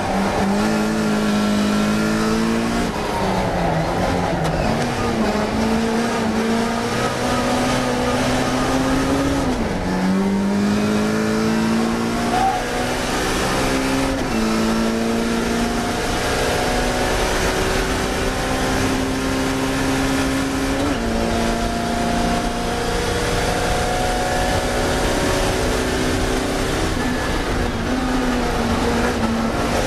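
Classic Mini race car's BMC A-series four-cylinder engine at racing speed. The revs climb steadily in each gear and drop back sharply at three gear changes, and fall away near the start and the end as it comes off the throttle. Road and wind noise runs underneath.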